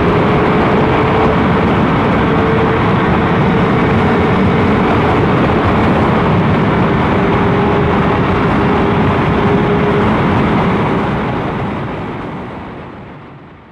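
Motorcycle engine running at a steady cruise under heavy wind rush. The sound fades out over the last few seconds.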